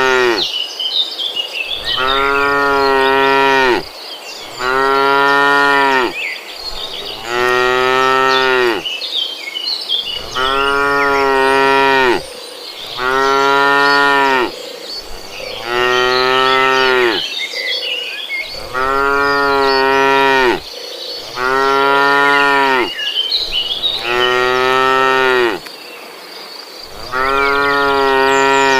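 Cattle mooing over and over, one long moo about every two and a half seconds, each about two seconds long and much alike, with short high chirps in the gaps between moos.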